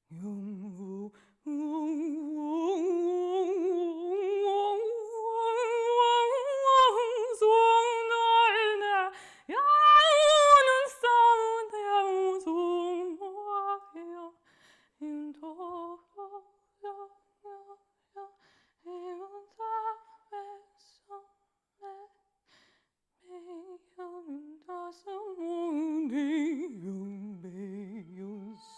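A woman's voice singing wordlessly with a wide vibrato. Long held notes climb slowly to a loud high peak about ten seconds in, then break into short separate notes with gaps. It ends on a low note.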